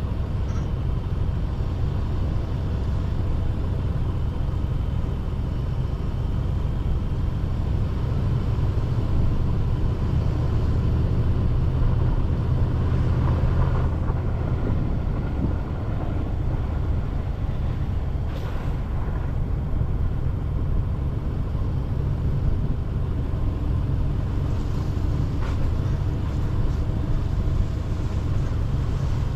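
Steady road noise of a moving car heard from inside: a low rumble of engine and tyres that grows slightly louder for a few seconds in the middle.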